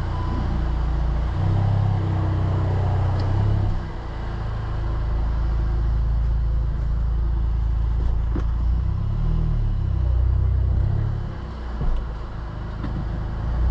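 Volkswagen Golf 7.5 Final Edition driving on a test drive, a steady low engine and road rumble that eases off briefly about four seconds in and again near eleven seconds.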